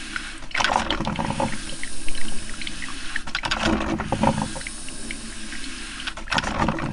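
Coffee maker brewing: liquid noise that swells in louder surges about every three seconds over a steady background.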